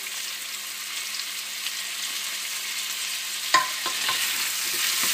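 Chopped vegetables sizzling in hot olive oil in a stainless steel pot as they are stirred with a wooden spoon. About three and a half seconds in there is a sharp knock against the pot that rings briefly, followed by a few lighter clicks.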